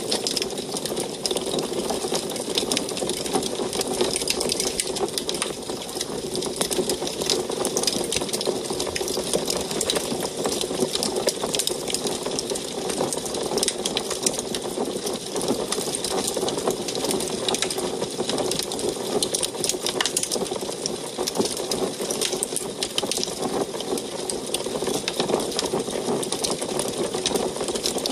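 Wood fire crackling in an antique wood stove: many quick small pops and snaps over a steady rushing of the burning fire.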